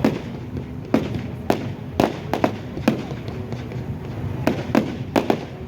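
Display fireworks exploding: an irregular run of about ten sharp bangs, some in quick pairs, with a short lull in the middle.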